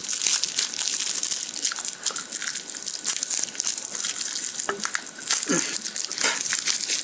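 Plastic bubble wrap crinkling and crackling as it is torn open and pulled off a phone charger: a dense, continuous run of small crackles.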